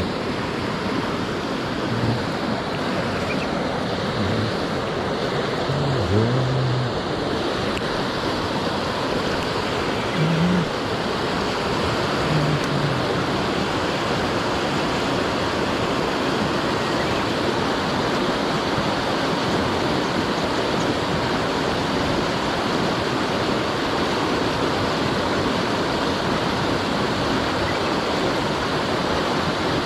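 Mountain stream water rushing, a steady unbroken wash of noise.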